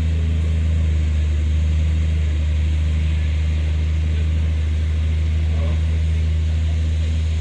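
Heavy diesel engine of earthmoving machinery running steadily under load, a constant deep hum with a hissing upper layer.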